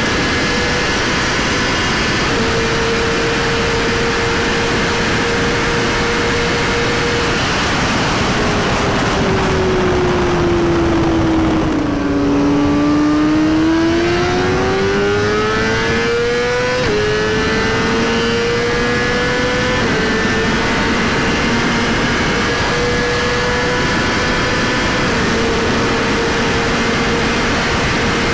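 Superbike engine running at a steady high pitch over a loud rushing noise. It eases off about a third of the way in, then pulls back up, with a sudden drop in pitch like a gear change just past the middle before settling back to a steady note.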